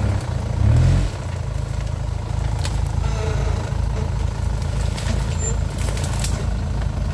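Off-road 4x4's engine running low and steady, with a brief louder rev about a second in and a few sharp knocks later on.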